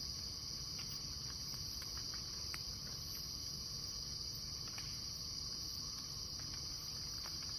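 Steady insect chorus, a continuous high-pitched trill of crickets or cicadas, with a few faint clicks.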